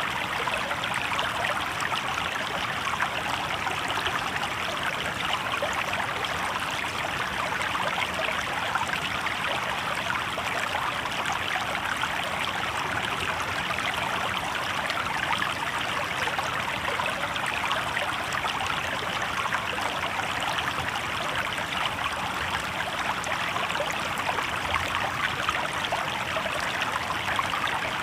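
Shallow river water babbling steadily over stones.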